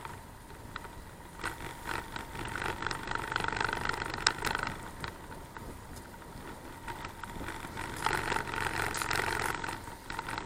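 Bicycle ride heard through an action camera's microphone: wind and road noise with scattered rattles and clicks, one sharp click about four seconds in, over a faint steady high whine.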